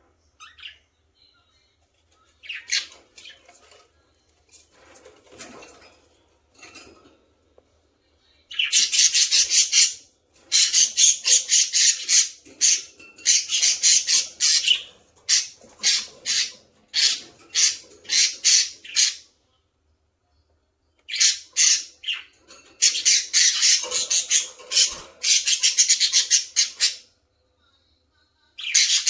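Baby budgerigars squawking: harsh, raspy calls repeated in rapid runs. They are faint and scattered at first, then come in long loud bouts with a short break about two-thirds of the way through.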